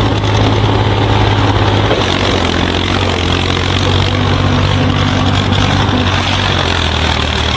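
A heavy engine running steadily, its low hum stepping down in pitch about two seconds in and again near the end.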